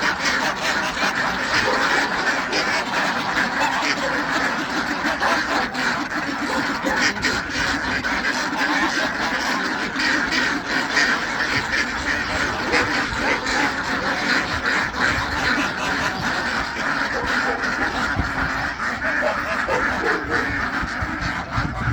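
A large flock of farm fowl calling over one another, a loud, unbroken din of overlapping calls.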